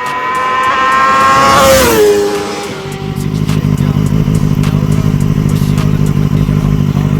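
Kawasaki Ninja ZX-6R inline-four motorcycle engine revved through its exhaust. The pitch climbs for about two seconds, falls back, and the engine then settles into a steady, pulsing idle.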